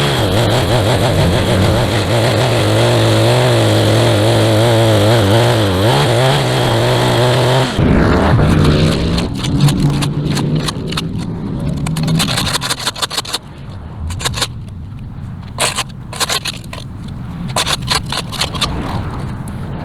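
Small gas engine of a handheld yard power tool running at high speed with a slightly wavering pitch, then cutting off suddenly about eight seconds in. After it, irregular scraping and rustling with scattered knocks, as of sod and debris being worked by hand.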